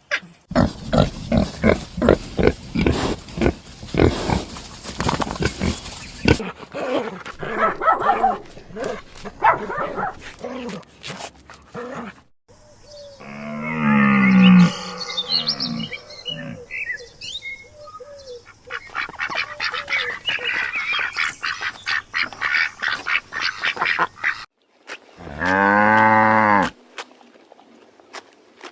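A succession of different animal calls: rapid pulsed calls for the first several seconds, a loud pitched call about a third of the way in, and a strong, drawn-out pitched call near the end.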